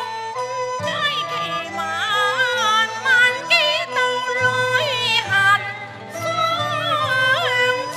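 Cantonese opera (yueju) accompaniment ensemble playing an instrumental passage: a sliding, wavering lead melody over sustained low notes.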